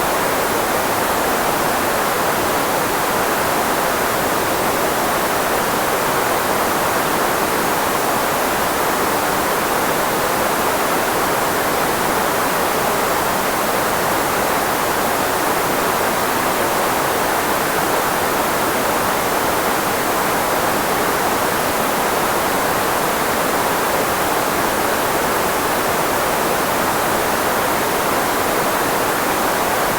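Steady filtered white noise, a constant hiss with no change, concentrated in the range of the human voice so as to mask speech.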